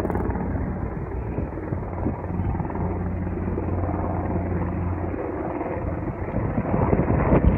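Helicopter passing overhead, a steady drone of rotor and engine that eases about five seconds in.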